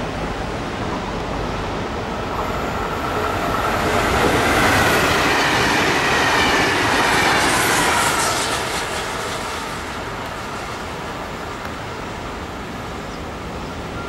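Double-deck electric passenger train passing through the station: the sound builds to a peak, with whining tones that fall in pitch as it goes by and a quick run of wheel clicks over the rail joints near the end of the pass, then dies back to a steady background rumble.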